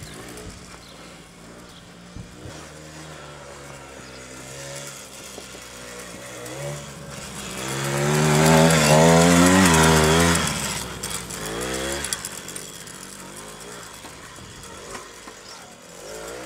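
Small petrol engine of a child's quad bike running and revving, its pitch wavering up and down. It grows louder to a peak about eight to ten seconds in, then falls away.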